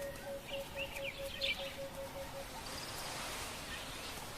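Outdoor bush ambience with birds calling: a run of short, evenly spaced low notes, about three a second, that stops about halfway through, with higher chirps over it early on. A faint high hiss takes over near the end.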